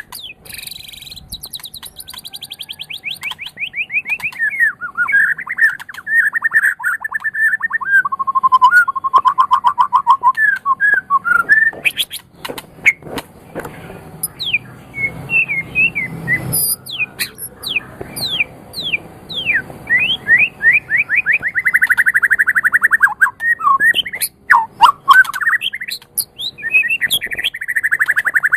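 White-rumped shama singing a long, varied song. It runs through fast trills of rapidly repeated notes, steep rising and falling whistled sweeps, and a few sharp clicking notes near the middle.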